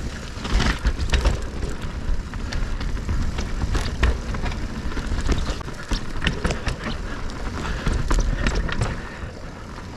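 Electric mountain bike riding down a rough dirt trail: steady tyre and ground noise with a low rumble, peppered with rapid rattles and knocks from the bike over the bumps.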